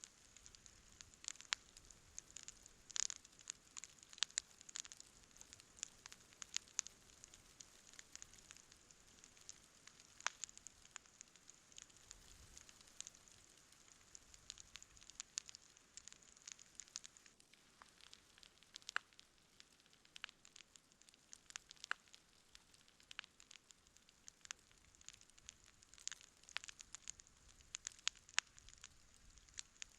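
Wood campfire crackling, with frequent irregular sharp pops over a faint steady hiss. A burst of louder pops comes about three seconds in.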